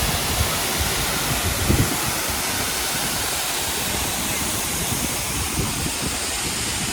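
Aber Falls (Rhaeadr Fawr) waterfall: a steady, full rush of falling water. A few low buffets of wind on the microphone come through, the strongest just under two seconds in.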